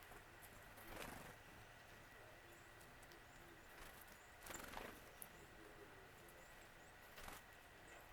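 Faint bird calls: three short, noisy calls a few seconds apart, with a few tiny high chips between them, over a quiet background with a faint steady high tone.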